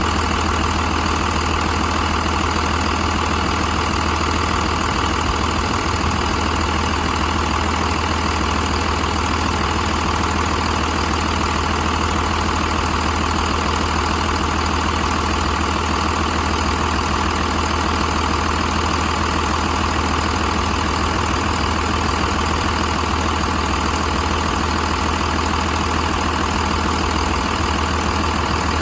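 Cummins B5.9 inline-six diesel engine idling steadily at a constant speed, with no revving.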